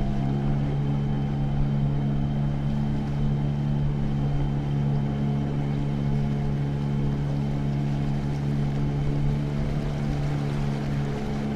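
Motorboat engine running steadily at an even pitch, with water and hull noise beneath it.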